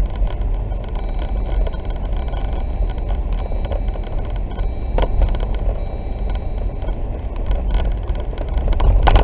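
Steady in-cabin road noise of a Jeep driving on a snow-covered road: a low rumble of tyres and engine, with one brief click about five seconds in.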